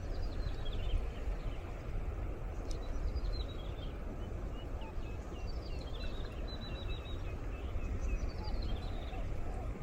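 A wild bird singing, four descending whistled phrases spaced about two and a half seconds apart, over a steady low rumble of breeze on the microphone.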